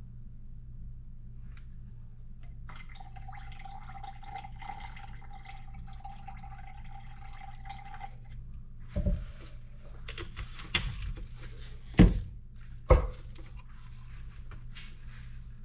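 Thinner poured from a can into a paint-mixing cup, a steady trickle lasting about five seconds. It is followed by four knocks of the can and cup being handled, the loudest about twelve seconds in, over a steady low hum.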